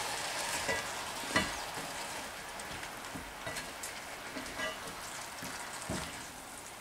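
Sliced mushrooms, onion and green chillies sizzling in a cast-iron skillet while being stirred with a silicone spatula, with a few light knocks of the spatula on the pan. The sizzle slowly fades.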